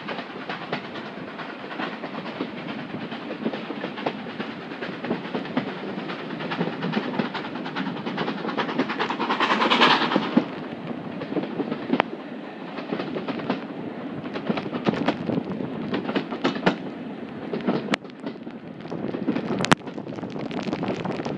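Heritage steam train running along, heard from an open carriage window: wheels clicking and knocking over the rails under a steady rush of moving air on the microphone, with a short louder rush of noise about halfway through.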